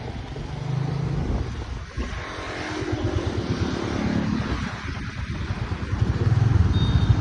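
Motorbike engine running while riding, with wind noise on the microphone; the engine's low pulsing grows louder about six seconds in.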